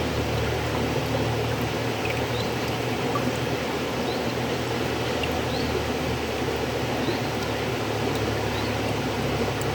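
River water flowing steadily: a continuous even rushing with a low rumble underneath, and faint short high chirps scattered through.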